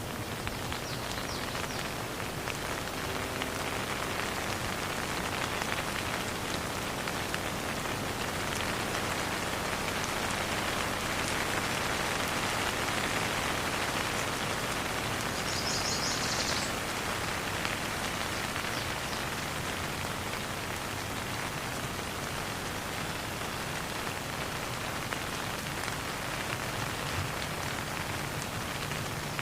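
Steady rain falling and pattering on a surface, with no thunder, swelling slightly through the middle. A brief faint high chirp comes about halfway through.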